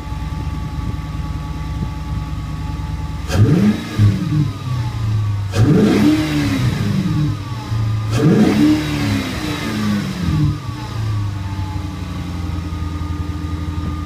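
Infiniti M45's V8 idling and blipped three times, each rev rising and dropping quickly back to idle, heard at the cold air intake. The intake adds a faint whistle.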